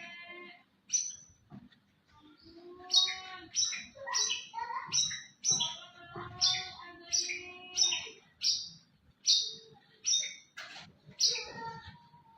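White-rumped shama (murai batu) singing: a fast string of sharp, high notes mixed with lower held whistles, about two notes a second, after a short pause near the start.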